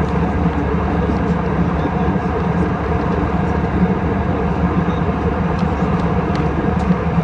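Airbus A320 cabin noise in flight: a steady, even rush of airflow and engines, with a few faint clicks scattered through it.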